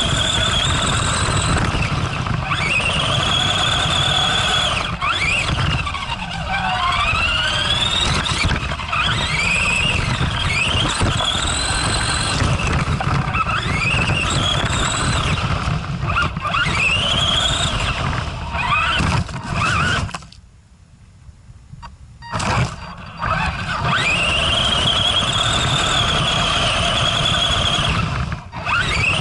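Arrma Granite RC monster truck's electric motor whining, rising and falling in pitch again and again as it speeds up and lets off, over a steady low rumble. The sound drops almost away for about two seconds some twenty seconds in, then the whine picks up again.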